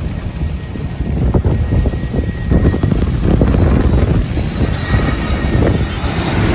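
Airbus A321-271NX airliner's Pratt & Whitney geared turbofan engines heard during landing: a deep, uneven rumble, with a hiss that grows stronger near the end.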